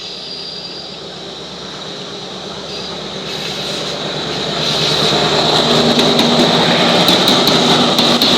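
A departing train rolling along the rails, the wheel-on-rail noise building steadily for about five seconds and then holding loud. A steady high-pitched wheel squeal runs through it, with wheel clicks over the rail joints in the second half.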